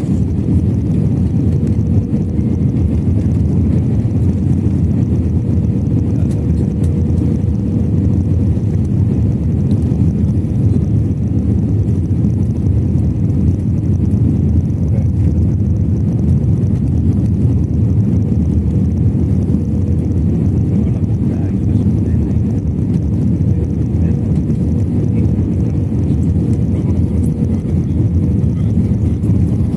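Airbus A321 cabin noise: a steady low roar of the jet engines and airflow, with a faint constant hum.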